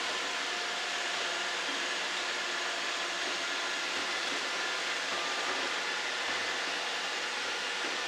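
Five Roomba robot vacuums (two 600 series, a 981 and two i7s) running together, a steady mix of their vacuum motors and brushes whirring with a few faint hums.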